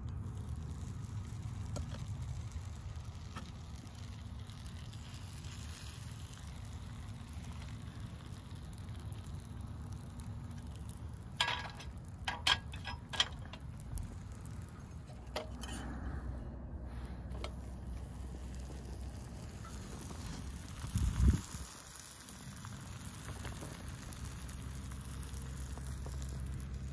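A grilled cheese sandwich frying in a cast iron skillet over a small wood fire in a folding stove, faint sizzling and fire crackle over a steady low rumble. A few sharp clicks come about halfway through, and a short low thump about two-thirds of the way in.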